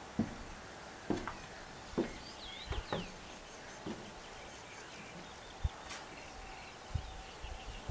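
Lakeside ambience: a bird sings a short phrase of swooping whistled notes, a fainter high trill repeats behind it, and soft irregular thumps come about once a second.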